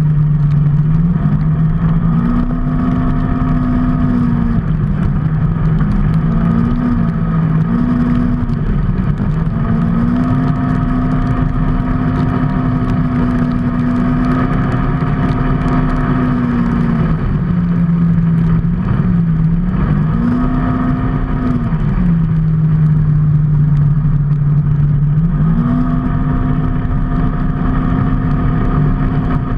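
A motor vehicle's engine runs under way over a steady rushing road noise. Its pitch moves up and down between a lower and a higher level several times as the revs change. It holds high for a long stretch in the middle and drops low for a few seconds before it climbs again near the end.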